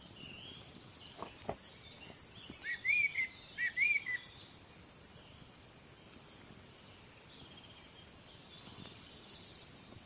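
A small songbird calling: about half a dozen short, arched chirps in two quick groups, loudest around three to four seconds in, with fainter bird calls further off. A couple of faint clicks about a second in, from branches being handled.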